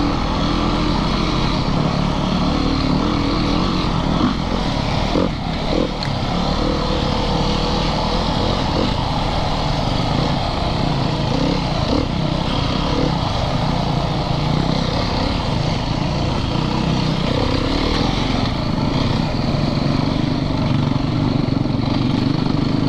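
Single-cylinder four-stroke dirt bike engine of a Yamaha YZ450FX running at fairly steady revs while riding. A few short knocks come about four to six seconds in.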